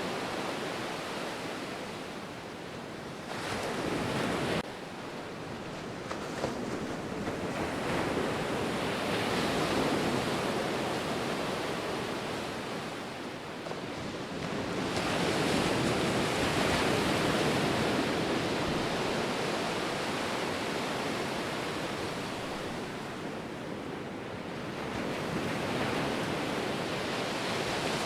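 Ocean surf: a continuous wash of breaking waves that swells and recedes every several seconds, loudest around ten seconds in and again from about fifteen to eighteen seconds. One swell cuts off abruptly about four and a half seconds in.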